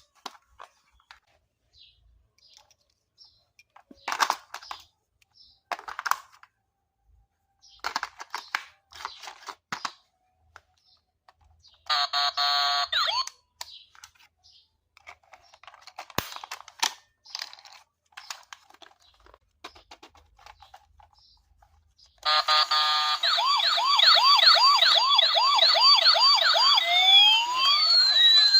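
Scattered light clicks and rustles, then a short electronic buzz about 12 s in. Over the last six seconds, a battery toy's electronic siren effect plays loudly, with fast warbling chirps and sweeping rising and falling tones.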